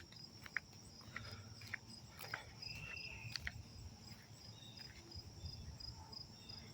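Insects chirping faintly in a steady, even pulse, with a few scattered sharp clicks and a brief high note about three seconds in.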